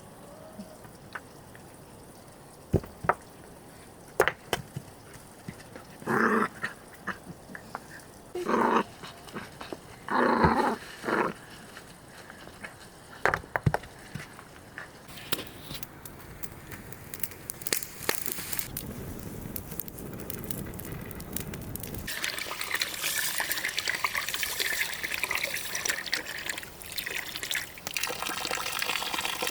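Scattered knocks and clicks, and about four short animal calls between roughly six and eleven seconds in. Later, water starts to run with a steady hiss.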